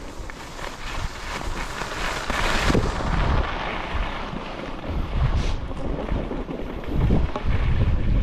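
Strong mountain wind buffeting the microphone in gusts, a low rumble that swells and eases, with a louder hissing gust about two to three seconds in.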